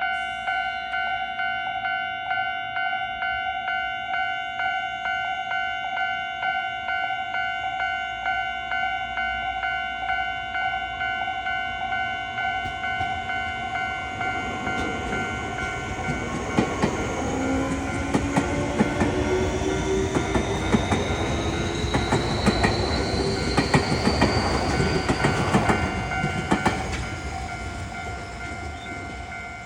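Japanese railway level-crossing warning bell ringing in a fast, steady repeat. From about halfway, a Tobu Urban Park Line electric train gets louder: its motor whine rises in pitch as it pulls away and its wheels clack over the rail joints. The train noise fades near the end.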